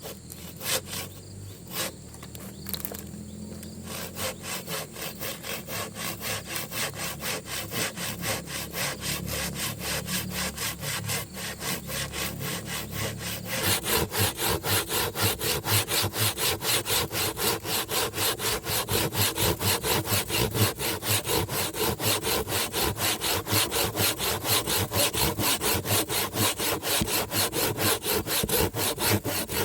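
Hand saw cutting through wood in steady back-and-forth strokes, about three a second. About 14 seconds in the strokes grow louder.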